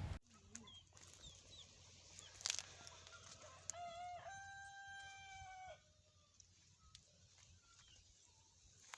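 A rooster crows once, faint, starting about four seconds in: a short first note, then one long held note of about two seconds. Before it there are a few faint bird chirps and a single click.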